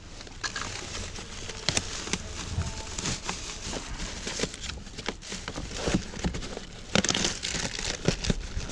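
Rubbish being rummaged through: plastic bin bags rustling and crinkling, with scattered knocks and clicks as items are moved about.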